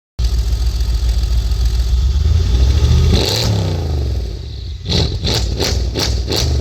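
Tuned Mercedes-AMG CLS63 S twin-turbo V8 with a full aftermarket exhaust, starting abruptly and running hard, its pitch climbing and falling in revs with a brief hiss midway. In the second half come sharp repeated bursts, about three a second.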